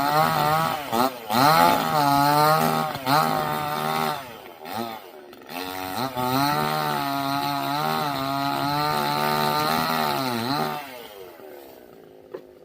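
Chainsaw running at high revs, its pitch dipping and recovering again and again as it loads in the cut, then falling away about eleven seconds in. A single short knock follows near the end.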